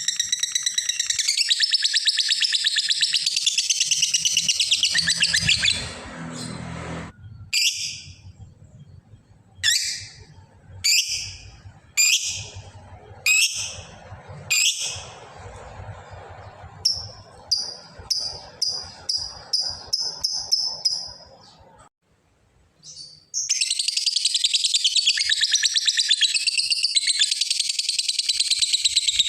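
Lovebird chattering in a long, fast, continuous trill (the 'ngekek panjang'). About six seconds in it breaks into single sharp calls spaced about a second apart, then a quicker string of short chirps. After a brief pause the long chattering trill starts again.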